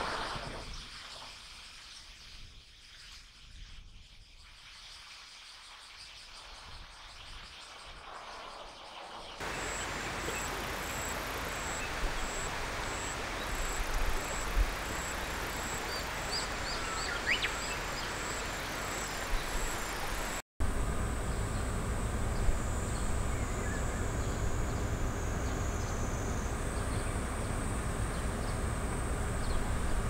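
Thin, high-pitched wild bird calls, faint against a steady outdoor background noise. The background changes abruptly twice, about a third and about two-thirds of the way in, as one field recording gives way to another.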